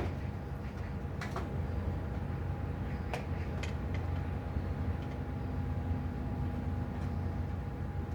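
Steady low mechanical hum with a few scattered sharp clicks and knocks, typical of handling tools and pipe parts during plumbing work.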